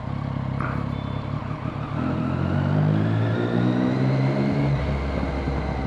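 Triumph Street Triple's three-cylinder engine under way, its pitch rising as the bike accelerates about two seconds in, then holding steady.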